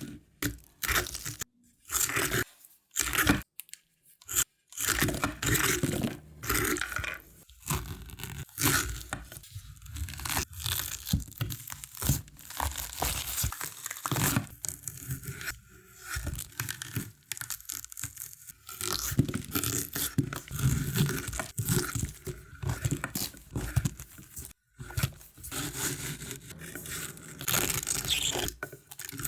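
A rapid string of slicing sounds, each a blade cutting through a different object, some crunching and some tearing, with sudden edits between them.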